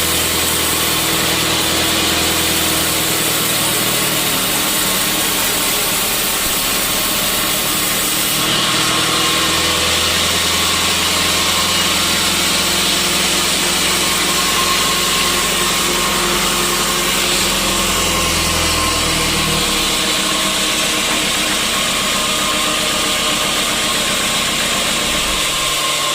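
Sawmill saw running and cutting through a teak log, a loud continuous machine noise with a low motor hum under a hiss of sawing. The sound changes about a third of the way in and again about two-thirds through, as the cut goes on.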